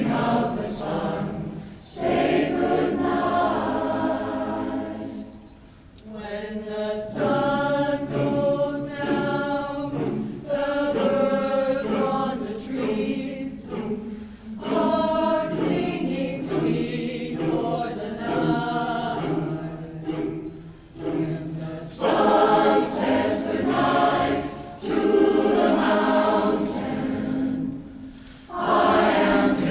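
Community choir singing a song in several voices, phrase by phrase, with brief breaks between phrases.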